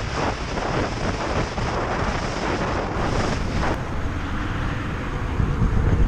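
Wind buffeting the microphone, a dense, fluctuating rush over a low rumble.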